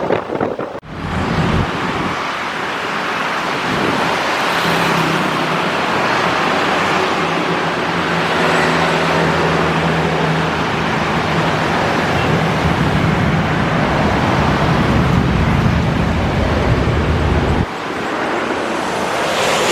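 Steady roar of road traffic, with a low engine drone underneath, that breaks off abruptly near the end.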